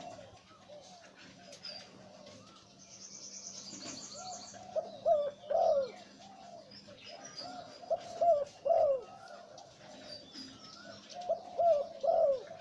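Male zebra dove cooing in rapid stuttering phrases, three loud bouts roughly three seconds apart, with softer coos between. Fainter chirps of other small birds sound in the background.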